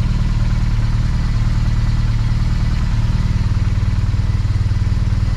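BMW R1200GS boxer-twin engine idling steadily.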